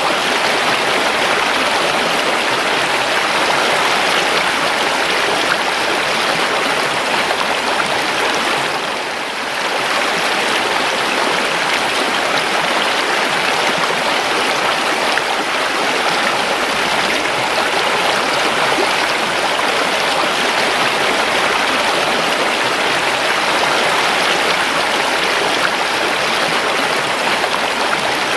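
River water flowing over rocks, a steady rushing and gurgling with a brief dip in level about a third of the way through.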